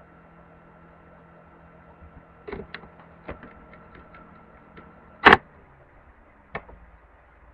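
A small cooling fan running with a steady hum and a thin whine, amid a few handling clicks. A loud click about five seconds in cuts the whine off, and another click follows about a second later.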